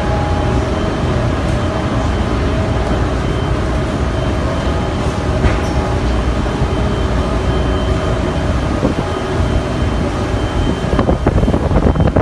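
Steady low engine drone of a BC Ferries ferry, with a few steady hum tones over the rumble. About a second before the end, wind starts buffeting the microphone.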